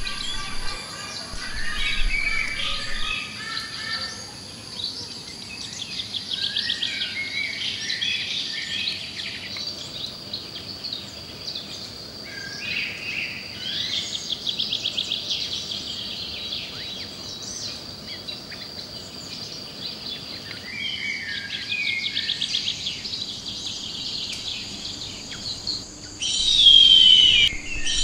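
Many wild birds chirping and trilling, with bursts of rapid trilling throughout. Near the end a much louder high call starts, sliding down in pitch.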